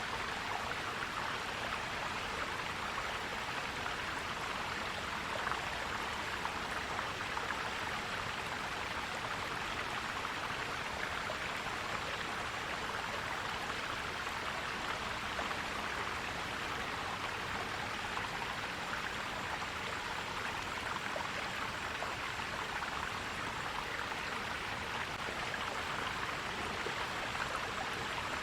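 Forest stream flowing and gurgling steadily over stones.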